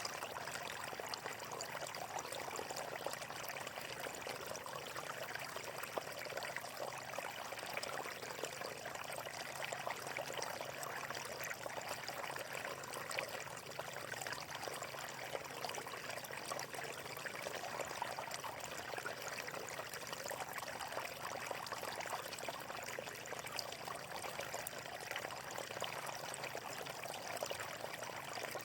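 A stream of water flowing steadily, a constant trickling rush made of many tiny splashes.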